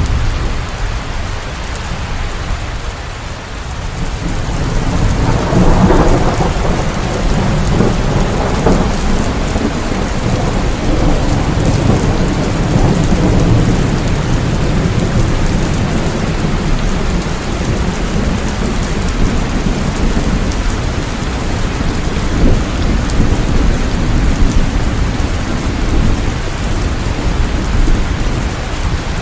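Steady rain falling, with thunder rumbling low underneath. The rumble dips a few seconds in, builds again around six seconds and carries on.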